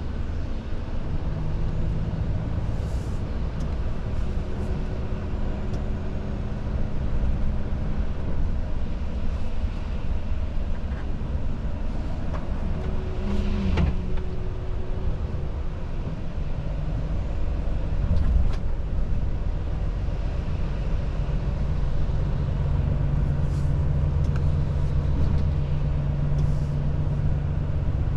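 Volvo FH truck driving along: steady low diesel engine drone with road and tyre noise. The engine note shifts in pitch a few times as the speed changes.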